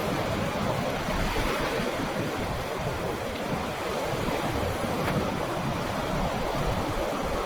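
Sea waves washing over rocks on the shore as the tide comes in, a steady surf noise with wind buffeting the microphone.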